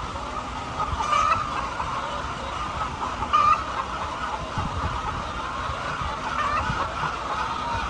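A flock of chickens clucking and calling together in a dense, continuous chorus, with a few louder calls standing out.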